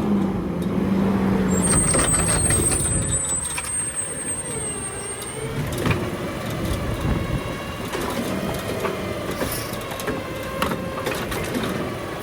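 Garbage truck at work: its diesel engine runs with a steady rumble, and a thin high squeal sounds for a few seconds near the start. Engine pitch rises and falls around the middle, with scattered clanks.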